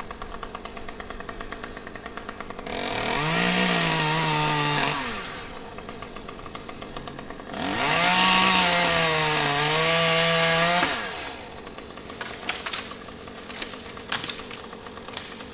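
Chainsaw idling, then revved up hard twice for a few seconds each, its pitch sagging under load as it cuts. Near the end come a series of sharp snaps and clicks.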